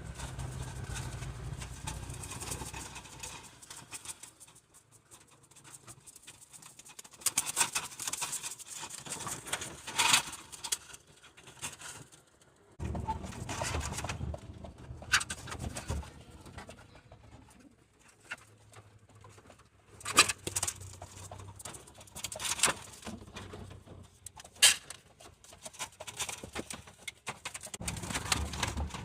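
Domestic pigeons cooing in a cage, with scattered sharp taps and clicks as they are fed.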